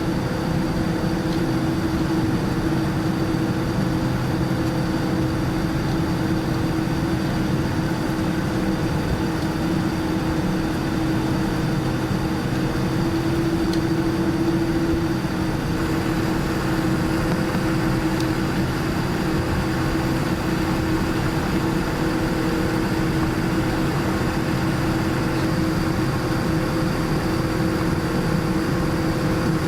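Steady engine noise heard inside the cabin of a Boeing 787-9 Dreamliner on the ground shortly before takeoff, with the jet engines running at low power: a constant hum with a few steady tones over a rushing background.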